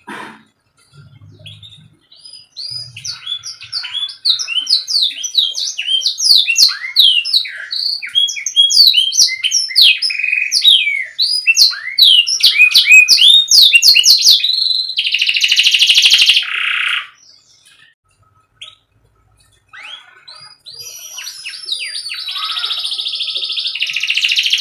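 Domestic canary singing: quick runs of high chirps and whistled notes, then a loud rolling trill about 15 seconds in, a brief pause, and further rolling trills near the end.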